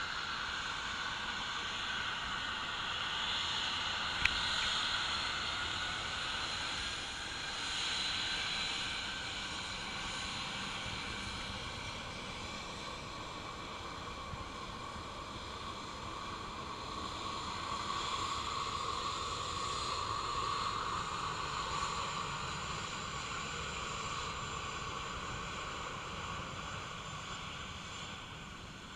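Jet engines of a Ryanair airliner running with a steady roar and a whine, swelling louder twice before fading near the end. A single sharp click sounds about four seconds in.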